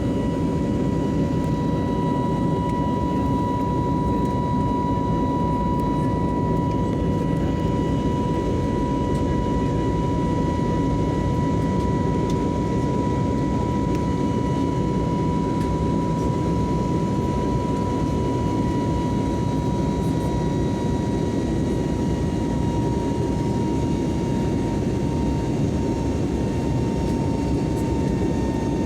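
Cabin noise inside an Airbus airliner in flight: the jet engines make a steady, unchanging rumble with a steady high whine on top.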